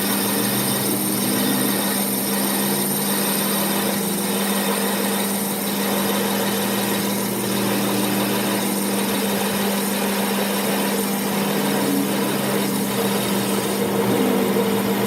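Steady hum of a running motor or machine, holding one constant low tone with a hiss over it.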